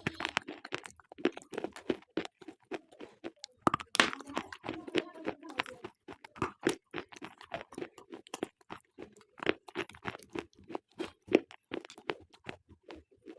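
Slate pencils being bitten and chewed: a steady run of sharp, dry crunches, several a second, over a lower chewing sound.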